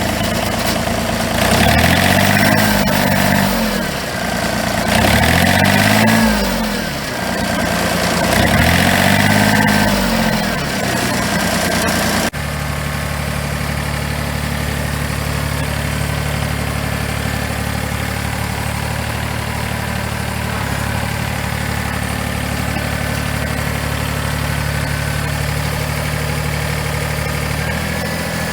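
John Deere 855 compact tractor's three-cylinder diesel engine, revved up and back down three times, then after an abrupt change about twelve seconds in, idling steadily.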